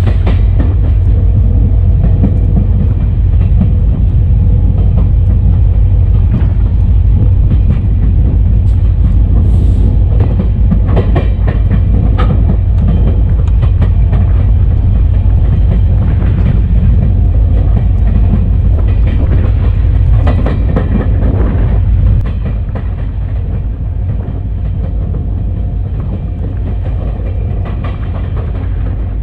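EMD SD40-2 diesel locomotive under way, heard from the outside of its short nose: a heavy, steady low engine drone from its 16-cylinder two-stroke diesel, with wheels clicking and knocking over the rail. About three-quarters of the way through, the overall sound suddenly drops somewhat in level.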